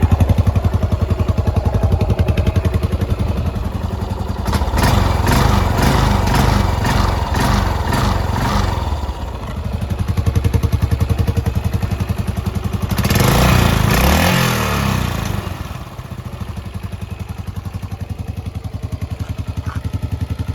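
A 2010 Yamaha SR400's air-cooled single-cylinder engine running. It idles, then is blipped repeatedly from about four seconds in, is revved once more a little past the middle, and settles back to a slower, quieter idle for the last few seconds.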